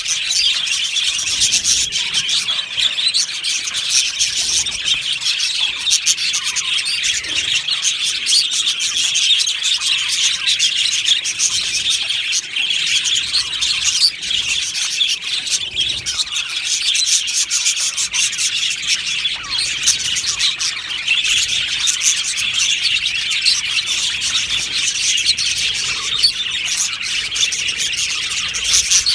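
A colony of budgerigars chattering and chirping together in an aviary, a dense, continuous warble of many birds at once.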